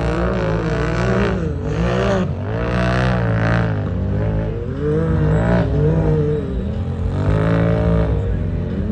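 Engines of several off-road race vehicles revving, their pitch rising and falling again and again as the riders work the throttle through the course.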